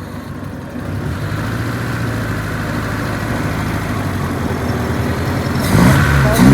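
Car engine running on its newly fitted electronic fuel injection, a steady low hum that gets louder about a second in. A louder sound with a shifting pitch comes in near the end.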